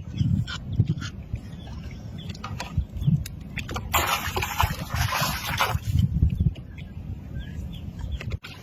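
Water sloshing around a small fishing boat, with low knocking and rumbling and a rush of splashing noise about four seconds in that lasts nearly two seconds.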